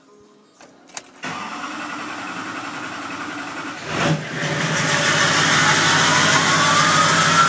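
An engine started for the first time: a couple of clicks, then about three seconds of steady turning over before it fires with a surge about four seconds in and keeps running, with a whine climbing in pitch near the end.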